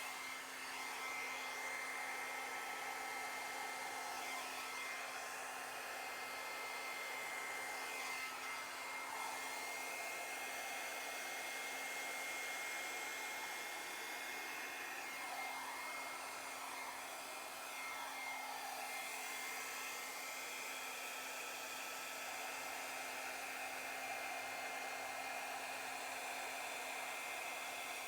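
Handheld hair dryer running steadily, blowing air with a high whine over its rush, the tone of the airflow wavering as it is moved about over the poured paint.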